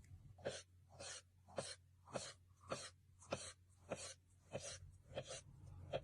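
A steady rhythm of short noisy strokes, just under two a second, over a faint low hum.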